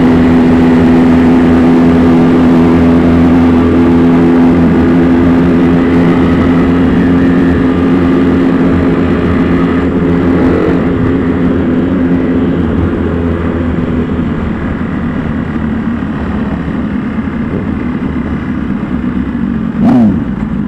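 Motorcycle engine running at a steady speed, heard from on board the bike. It gets somewhat quieter about two-thirds of the way through, and near the end there is a short, loud burst with a quick dip and rise in pitch.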